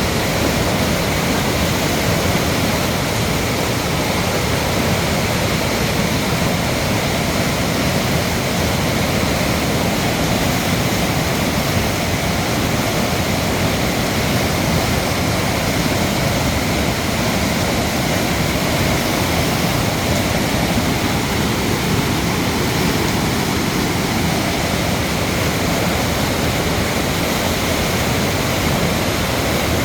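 Valley stream water rushing, a loud steady rush without change.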